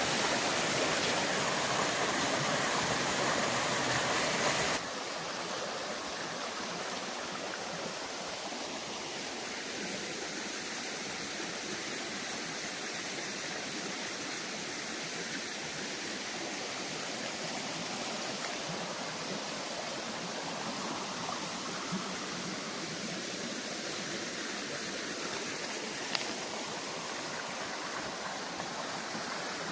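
Steady rush of water from a mountain stream's waterfall. About five seconds in it abruptly becomes quieter and thinner, losing its deep low end, and then stays steady.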